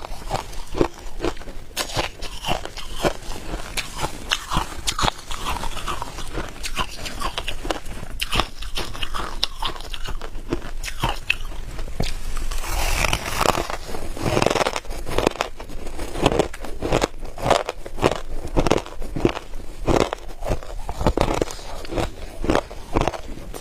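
Ice being bitten and chewed: a steady run of sharp crunches, several a second, with a softer, hissier grinding stretch about halfway through.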